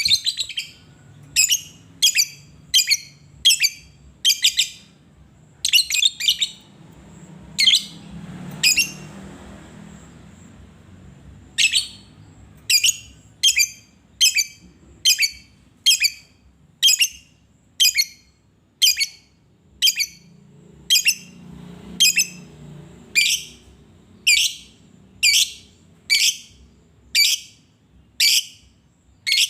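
Lovebird chirping: short, shrill calls repeated about once a second, with a pause of a few seconds about a third of the way through.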